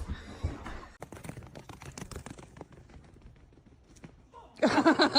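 A quick run of light clicks and taps for about four seconds, then a short, louder voice near the end.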